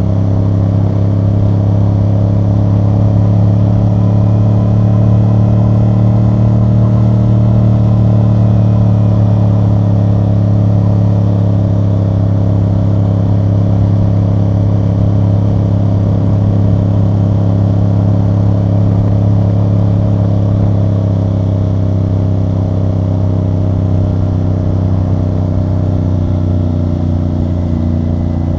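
CFMoto CL-C 450 cruiser's parallel-twin engine and exhaust running steadily under way, held at a fairly even engine speed with only small changes in pitch.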